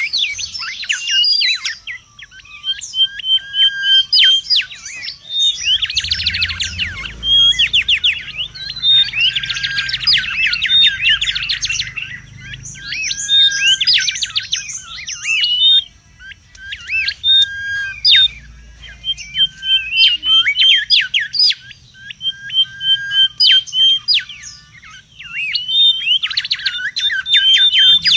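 Mangrove whistler (kancilan bakau) calling busily: dense bursts of fast, sweeping chirps alternate with runs of short, rapid notes held at one pitch, repeated over and over.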